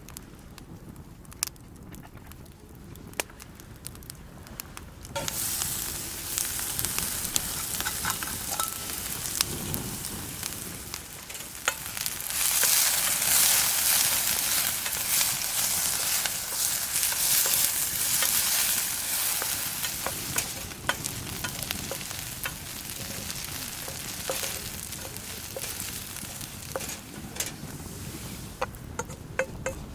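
Ingredients sizzling as they are fried in a frying pan over a campfire, the sizzle starting suddenly about five seconds in, strongest mid-way and then easing, with short clicks and scrapes of a utensil stirring in the pan.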